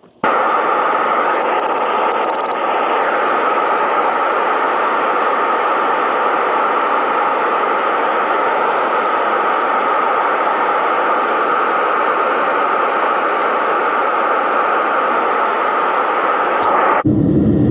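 Metal-melting furnace burner firing: a loud, steady rushing noise that cuts off suddenly near the end, where a lower rumble takes over.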